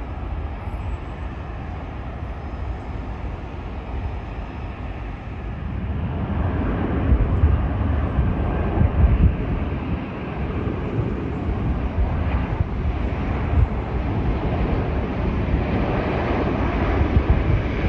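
Jet airliner engine noise, a steady rumble that grows louder about six seconds in and stays loud.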